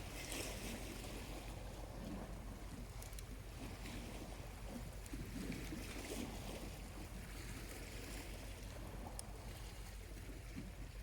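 Small waves lapping gently on the shore, swelling and easing every couple of seconds, with a faint crackle from a charcoal campfire about nine seconds in.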